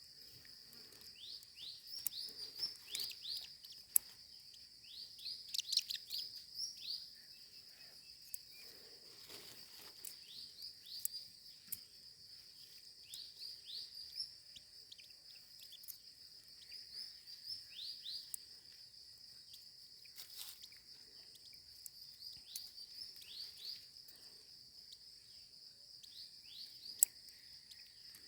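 Baby birds giving short, high chirps in repeated bursts over a steady high-pitched insect drone, with a few sharp clicks.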